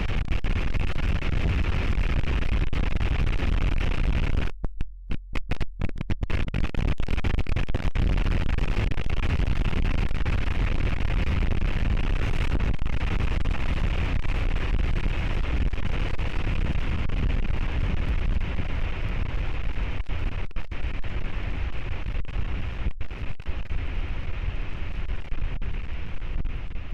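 Eruption of the Stromboli volcano picked up by a webcam's overloaded microphone: a continuous, distorted rumble and roar with a heavy low end. The sound cuts out in brief gaps about five seconds in.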